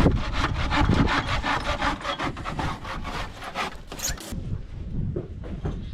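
Handsaw cutting wood with quick, even rasping strokes, about five a second, stopping abruptly about four seconds in.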